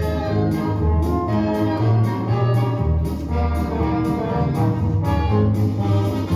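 Recorded orchestral music with brass, a melody over a strong bass line, played loudly.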